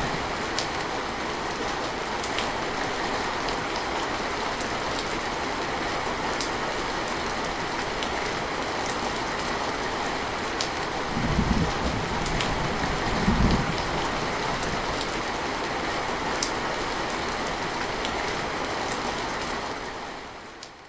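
Steady rain falling on a surface, with scattered distinct drop taps. Two brief low rumbles of distant thunder come a little past the middle, and the rain fades out near the end.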